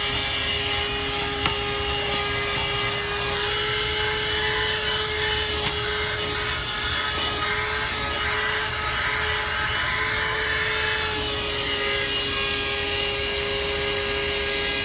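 A 12 V handheld car vacuum's small motor running with a steady whine. Its rushing suction hiss grows louder and then eases back through the middle, as the nozzle works over a surface.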